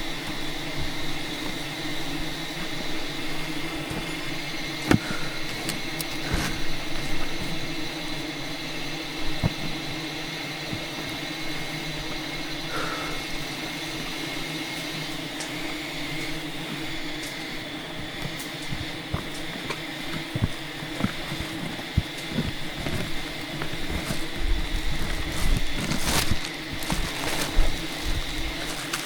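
Steady drone of a swarm of wild honey bees, with scattered knocks and crackles through it that grow more frequent near the end.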